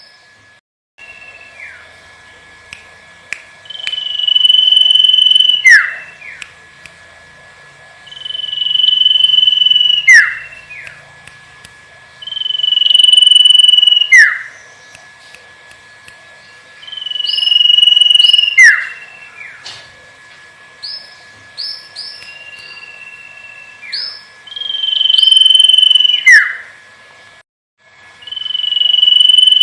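Common iora (cipoh/sirtu) singing: a long, drawn-out steady whistle that ends in a quick downward slur, repeated about six times, with short extra whistled notes between some phrases. A faint steady hum-like tone runs underneath.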